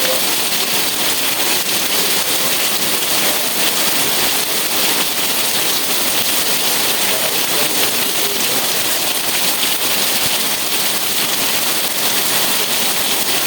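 Steady rain falling: a dense, even hiss of many fine drops that holds the same strength throughout.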